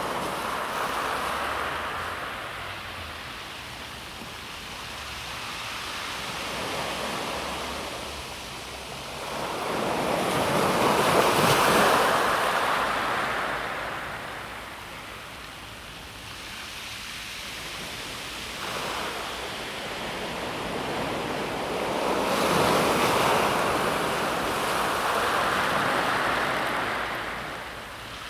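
Calm sea waves washing onto a pebble beach, a hissing wash that swells and fades slowly. The two biggest waves come in about ten seconds in and again from about twenty-two seconds.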